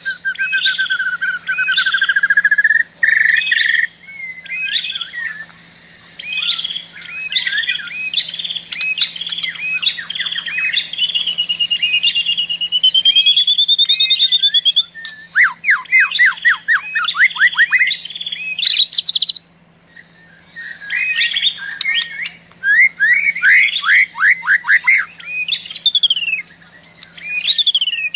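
Several birds chirping and singing: quick chirps and trills, a long wavering whistle near the middle, and runs of fast down-sweeping chirps later on, with a short lull about two-thirds of the way through. A faint steady low hum runs underneath.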